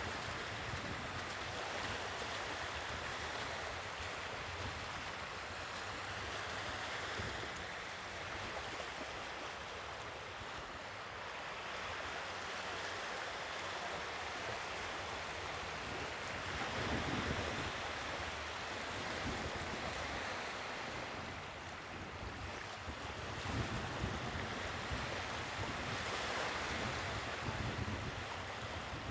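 Sea waves breaking and washing on the shore: a steady hiss of surf that swells and falls back, louder about midway and again near the end.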